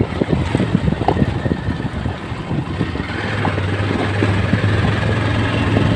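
Motorcycle running on the move, with wind buffeting the microphone; a steady low engine hum comes up about three seconds in.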